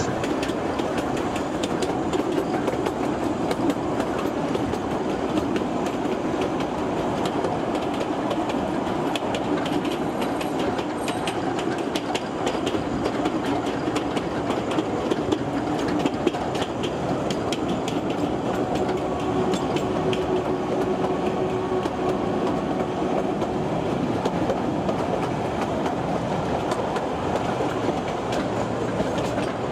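Kurobe Gorge Railway trolley train running, heard from an open passenger car: a steady rumble of wheels on the narrow-gauge track with a rapid clatter over the rail joints. A faint whining tone joins for a few seconds past the middle.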